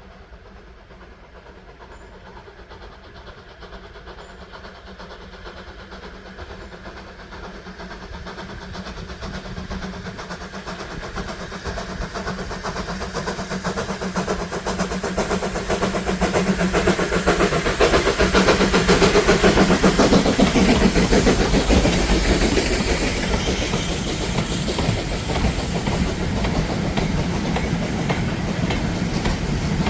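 Steam-hauled train approaching and passing, growing steadily louder to a peak about two-thirds of the way through, with the clickety-clack of wheels on rail joints.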